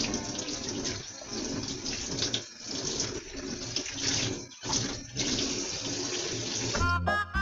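Kitchen tap running into the sink during dishwashing, a steady rush of water that is briefly broken twice.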